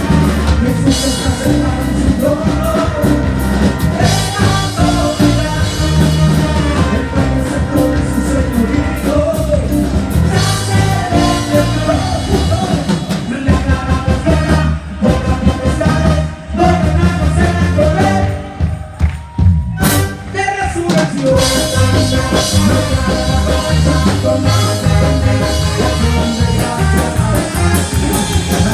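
A band plays upbeat live music with a drum kit and singing. Twice in the middle the music briefly thins out, then a sharp hit brings the full band back in.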